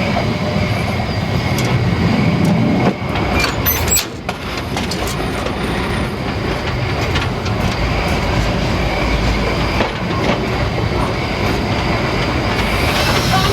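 Narrow-gauge steam train running along the track: a steady, loud rolling noise with wheel clatter, dipping briefly about three seconds in.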